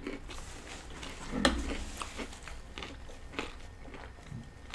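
Close-miked chewing of food, with a few sharp crunches and mouth clicks; the loudest crunch comes about a second and a half in.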